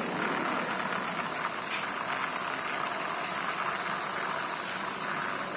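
Steady rolling noise of a toy dump truck's plastic wheels pushed by hand across a surface.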